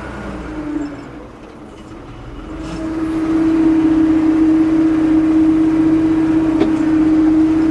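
Ford 550 backhoe's diesel engine running, with a loud, steady, even-pitched whine that comes in about two and a half seconds in and holds.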